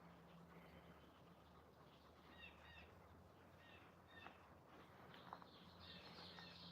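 Near silence, with a few faint short chirps from birds.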